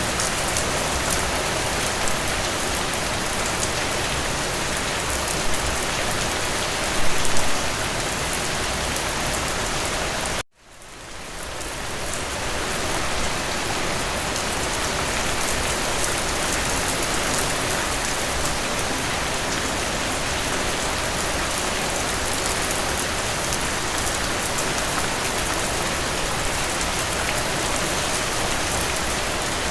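Steady, dense rainfall. About ten seconds in it cuts out abruptly and swells back to full level over a couple of seconds.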